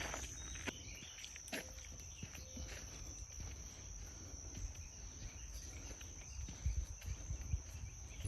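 A steady, high-pitched insect chorus, likely crickets, with a few sharp clicks in the first couple of seconds over a low rumble.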